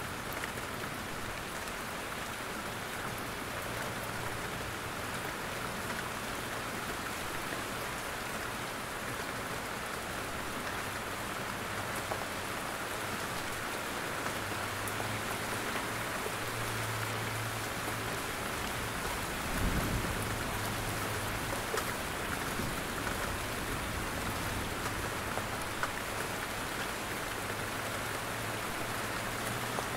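Steady rain, with drops falling from the trees, and a brief low thump about two-thirds of the way through.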